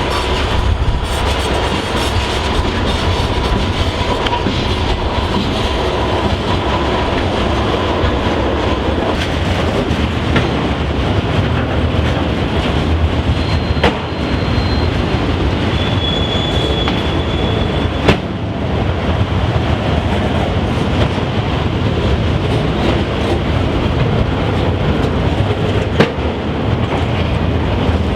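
A train rolling steadily past at close range: continuous wheel-on-rail noise with irregular sharp clicks of wheels over rail joints. Brief high-pitched wheel squeals come a little before and after the middle.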